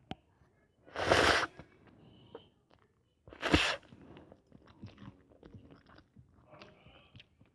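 Ramen noodles slurped loudly twice, each slurp about half a second, followed by soft chewing with small wet clicks.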